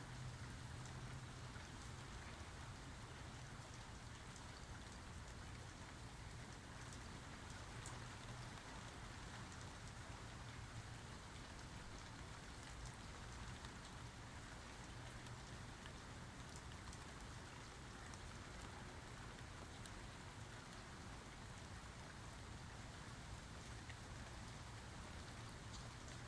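Steady rain falling, an even hiss dotted with sharper ticks of single drops, over a low steady rumble.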